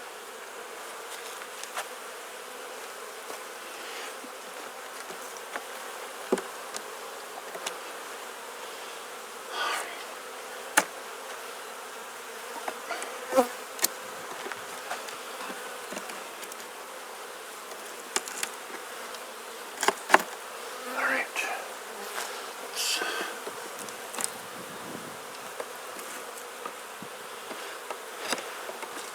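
Honeybees buzzing steadily from an open Langstroth hive, with scattered sharp clicks and knocks throughout, the loudest about ten, thirteen and twenty seconds in.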